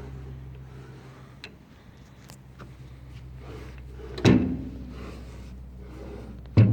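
Metal-cutting band saw machine with a steady low hum, and two heavy clunks of metal parts about four and six and a half seconds in, each with a short low ring.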